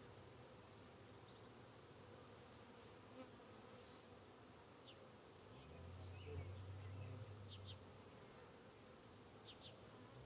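Faint buzzing of honey bees at a hive, with a stronger low hum swelling about six seconds in and fading about two seconds later.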